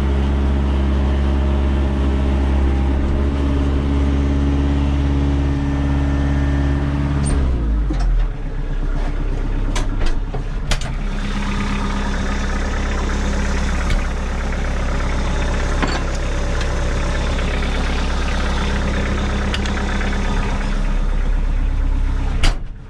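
Tractor engine running steadily. About seven seconds in its note drops and it runs on at the lower speed, with a few sharp clicks or knocks.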